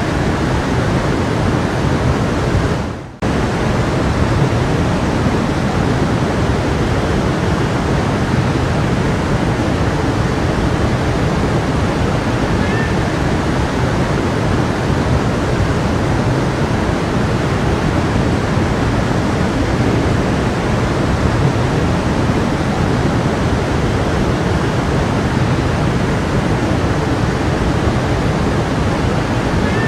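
A stream's water rushing steadily. About three seconds in, the sound briefly fades down and then cuts straight back in.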